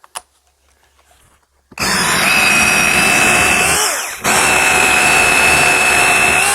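Rotary hammer drilling a thin pilot hole into a fireclay brick. It starts about two seconds in with a steady whine, cuts out for a moment in the middle, and runs again until near the end.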